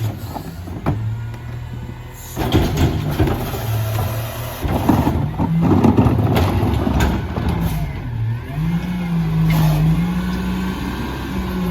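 Mack LR rear-loader garbage truck working: its engine runs under a long stretch of loud clattering from about two to eight seconds in. The engine then speeds up and holds a higher, steady pitch.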